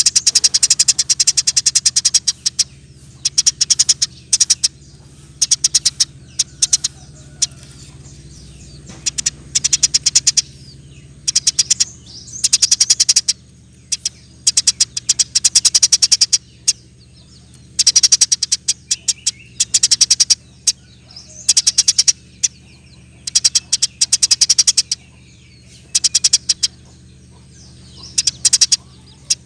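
Eurasian tree sparrow chattering in rapid, tightly packed trains of high chips, bursts of one to two seconds broken by short pauses.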